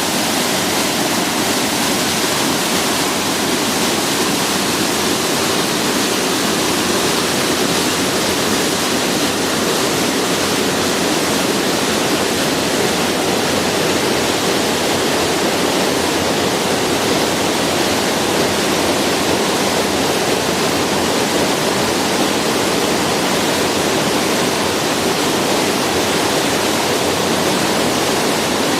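Kurakake Falls, a waterfall, pouring steadily: an even, unbroken rush of falling water.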